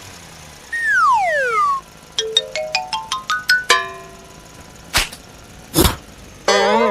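A string of cartoon-style sound effects: a falling slide-whistle glide, then a quick run of about nine short notes climbing in pitch. Two short noisy whooshes follow, and a wobbling, warbling tone starts near the end.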